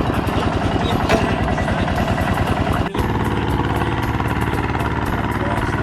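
Kubota M7040 tractor's diesel engine running steadily with an even, rapid chugging. About three seconds in it drops out for a split second, then resumes.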